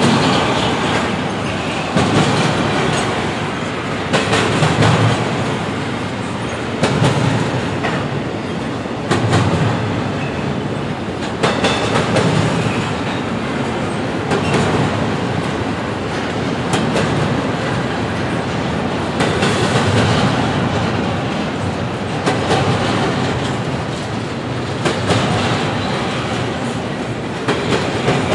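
Double-stack intermodal freight train rolling past: a continuous rumble of steel wheels on rail, with a louder clack-clack of wheel sets over rail joints about every two to three seconds.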